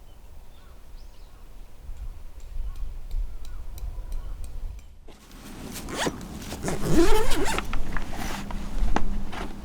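A zipper being pulled, in quick rasping strokes that start about halfway through, after a few faint ticks.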